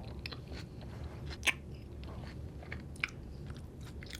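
A person chewing a mouthful of brisket taco, with wet mouth clicks and two sharper, louder clicks about one and a half and three seconds in.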